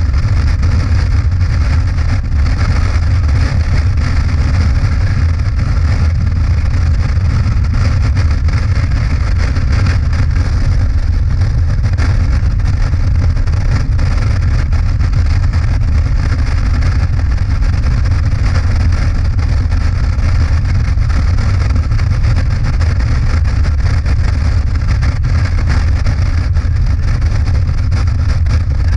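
Motorcycle engine running steadily at cruising speed, a constant low drone under an even rush of wind and road noise.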